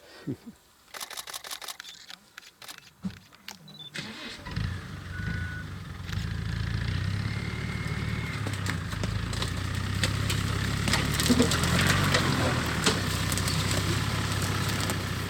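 A vehicle engine starts about four seconds in and then runs steadily with a low hum, after a few scattered clicks and knocks.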